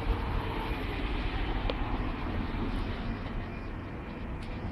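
Rumble of a passing train fading as it moves away from the crossing, with wind noise on the microphone.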